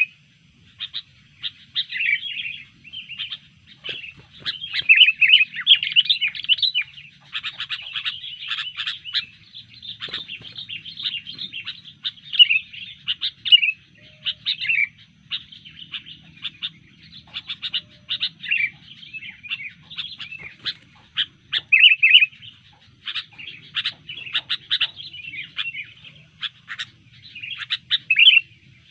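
Sooty-headed bulbul (kutilang) singing and chattering almost without pause in rapid, varied bursts of notes. This is the busy, loud song a provoked bulbul gives in a fighting mood.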